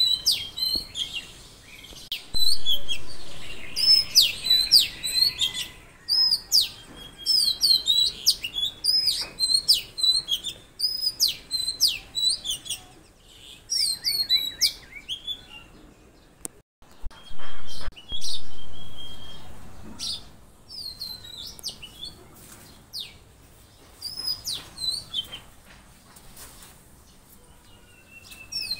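Wild songbirds chirping and whistling in quick, repeated high notes that often sweep downward, with pauses between phrases. Two sudden low thumps, about a quarter of the way in and again past halfway, are the loudest sounds.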